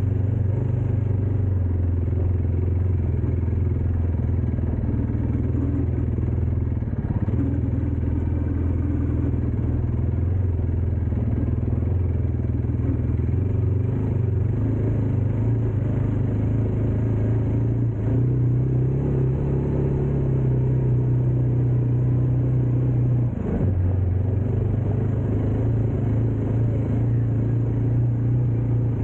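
Dirt bike engine running steadily at low speed, its note shifting a few times with the throttle and dipping briefly about two-thirds of the way through.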